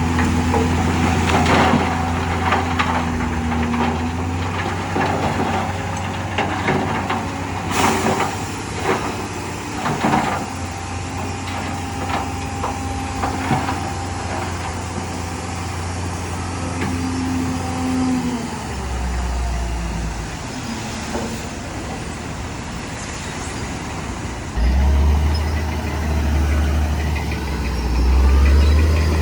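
Heavy diesel earthmoving machinery running, a steady low engine note with scattered clanks and knocks through the first half. The engine note changes just past halfway and grows louder again near the end.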